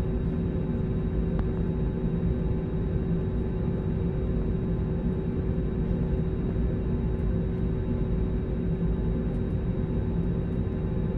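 Steady drone of an airliner cabin in flight: engine and airflow noise, heavy in the low end, with a constant hum and a faint high whine over it.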